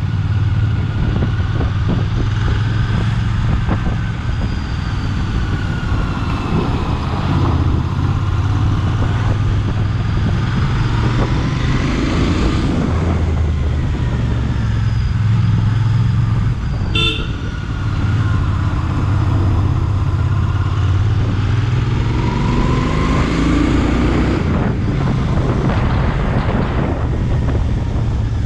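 Royal Enfield Bear 650's 648 cc parallel-twin engine running steadily under way, heard onboard with wind noise over the microphone. A short horn beep sounds once, about seventeen seconds in.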